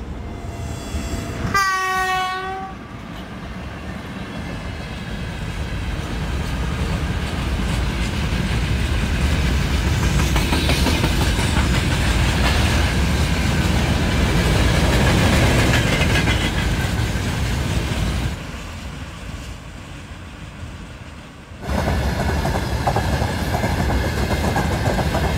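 Electric freight locomotive sounding one horn blast about a second long, then its long train of freight wagons rumbling past, growing louder as it nears. Later the sound drops briefly and comes back suddenly as the close rumble and clatter of freight wagon wheels on the rails.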